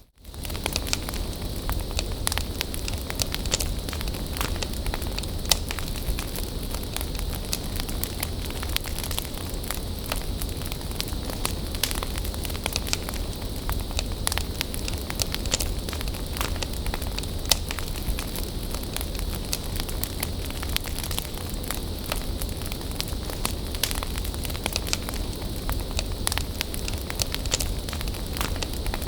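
Bonfire burning, with frequent sharp, irregular crackles and pops over a steady hiss and low rumble.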